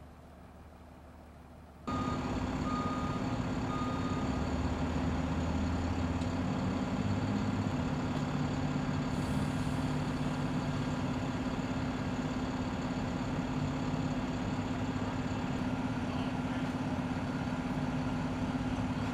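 About two seconds in, a large truck engine abruptly comes up loud and runs steadily. Just after it starts, a reversing alarm gives three short beeps.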